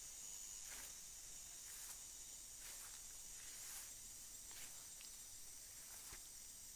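Faint steady high-pitched hiss with a few faint, scattered clicks.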